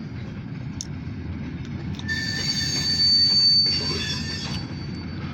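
Slow-rolling short freight train of a grain hopper and tank cars, its cars rumbling over the rails. About two seconds in, a high steady squeal from the steel wheels rises, peaks about a second later and fades out.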